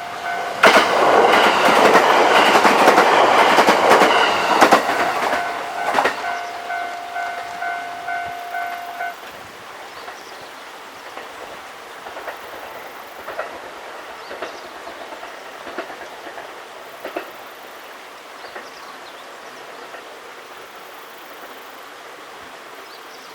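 A JR West 287-series electric multiple-unit limited express passing at speed: a loud rush of wheels on rail for about five seconds, with a steady high tone that lingers to about nine seconds in. Then quieter, spaced clicks of wheels over the rail joints fade as the train draws away.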